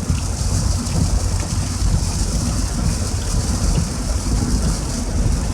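Heavy rain pelting a car's roof and windshield, heard from inside the pulled-over car as a steady hiss over a low, constant rumble.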